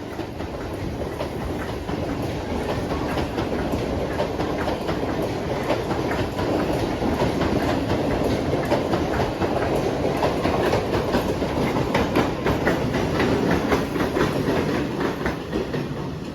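Mumbai suburban local train running past on the tracks, wheels clicking over rail joints. The rumble builds over the first several seconds, then fades near the end.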